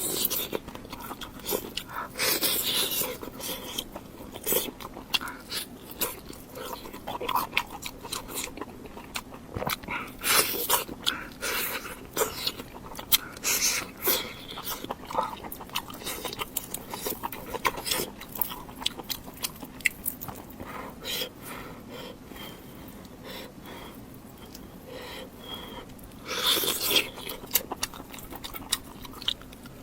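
Close-miked eating: a person biting and chewing food, with many irregular sharp mouth clicks and a few louder bites.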